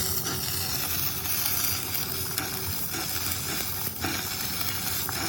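Electric arc welding: a steady sizzle with small crackles.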